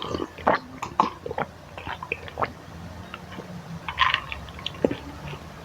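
Close-miked chewing of spicy Maggi instant noodles, with irregular wet mouth sounds and small clicks.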